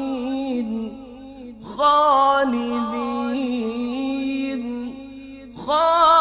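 Melodic Quran recitation (tajweed) by a solo reciter: long drawn-out vowels held on wavering, ornamented notes, with two short breaks for breath, about a second in and near the end.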